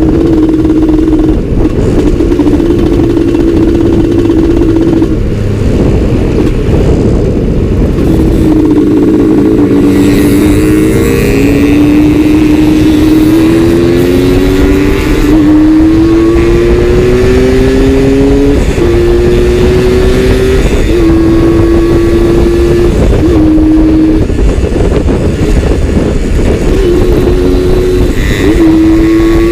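Suzuki Satria two-stroke 120 cc single-cylinder motorcycle engine running on the road. Its pitch holds level at first, then from about eight seconds in rises in a run of climbs, each cut off by a sudden drop as it shifts up through the gears under acceleration.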